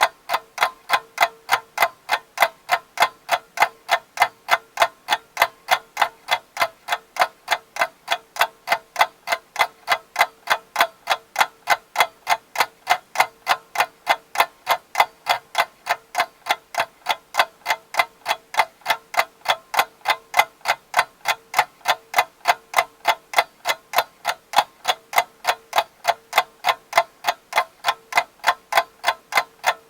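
Clock ticking steadily and quickly, about three ticks a second.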